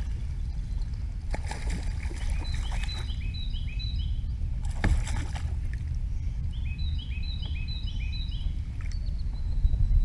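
Outdoor ambience on open water: a steady low rumble of wind or water, with a bird singing runs of short, quickly repeated chirps twice, and a single sharp knock about five seconds in.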